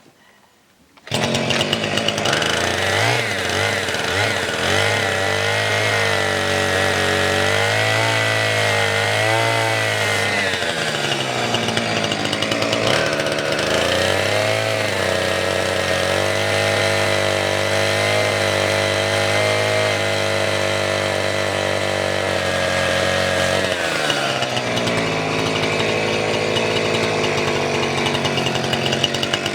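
Chainsaw cutting firewood, coming in abruptly about a second in and then running at high speed. Its engine pitch dips and recovers a few times as it bites into the wood, most clearly near the middle and again near the end.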